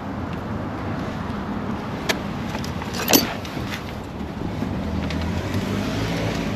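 Steady low hum of a vehicle engine running, with two sharp clicks about a second apart near the middle as plastic electrical connectors are worked loose with a pick.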